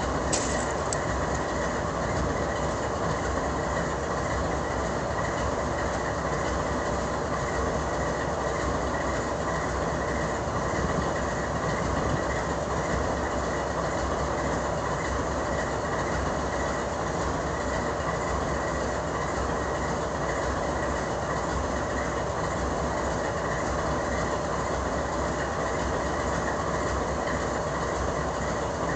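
Steady railway rumble and hum, even in level throughout with no single event standing out, as a train approaches from far down the track.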